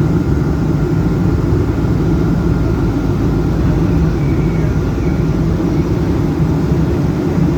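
Dubai Tram car running, a steady low rumble heard from inside the car.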